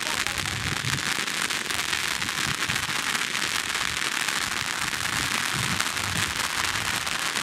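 Fireworks crackling without a break: a dense stream of small pops and crackles.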